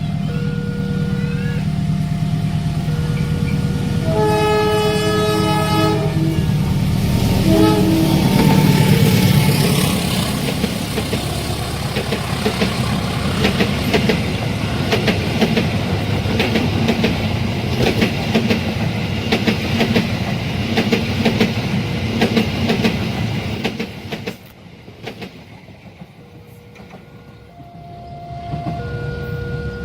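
Railway level-crossing alarm sounding an alternating two-note warning, then a locomotive horn blasts about four seconds in and again briefly a few seconds later. A long train passes, its wheels clacking rhythmically over the rail joints, until about three-quarters through, when the noise drops away and the two-note crossing alarm is heard again.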